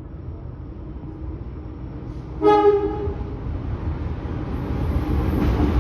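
Diesel-hauled passenger train pulling into a station: the locomotive gives one short horn blast a little before halfway, then the rumble of the approaching train grows steadily louder.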